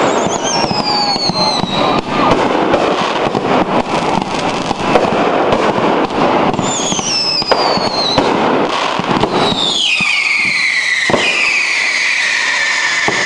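Fireworks display: a dense run of crackling and bangs from bursting shells, with several falling whistles. About ten seconds in, the crackle thins and one long whistle drops in pitch and then holds steady.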